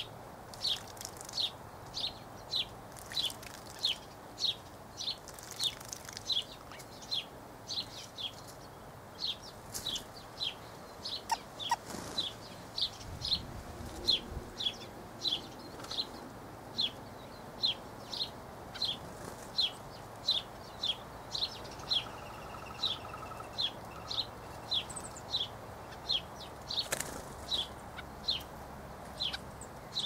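A bird repeating a short, high chirp at a steady pace of roughly two a second.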